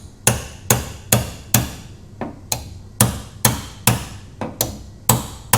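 Hammer striking sheet-metal body panel in a steady rhythm, about two and a half blows a second, each hit ringing briefly. It is working out a damaged car quarter panel while the panel is under pull on a frame machine, the metal stretching back out.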